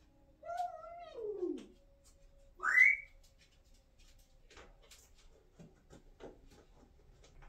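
Congo African grey parrot vocalizing: a drawn-out call that slides down in pitch, then a loud, short rising whistle about two and a half seconds in, followed by a few faint clicks.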